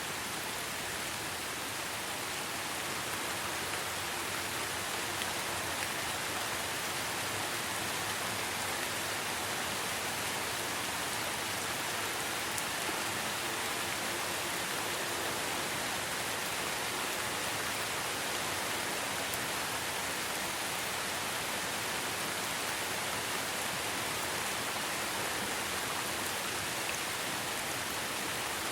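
Rain falling steadily: a dense, even hiss of drops.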